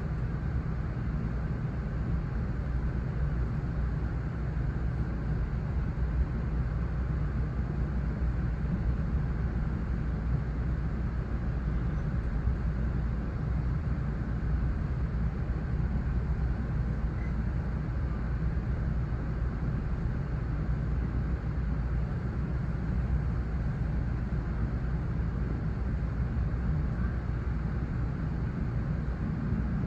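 Steady low rumble of a GO Transit commuter train running along the line, heard from inside the passenger coach.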